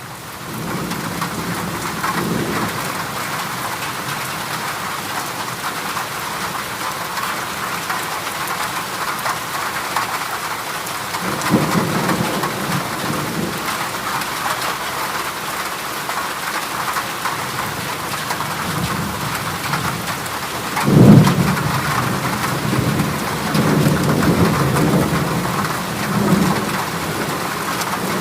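Heavy rain drumming steadily on a corrugated galvanized-metal roof, with several low rumbles of thunder; the loudest starts suddenly about three-quarters of the way through.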